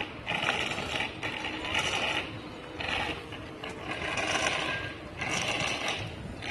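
Bicycle in motion: the mechanical rattle and scrape of the bike and its drivetrain, with ratchet-like clicking, coming in uneven surges.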